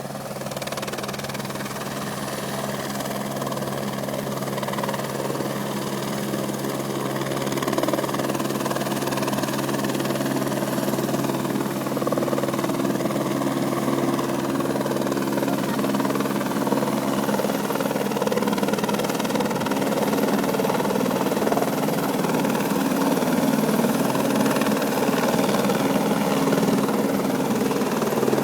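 Helicopter running steadily and growing gradually louder as it draws closer.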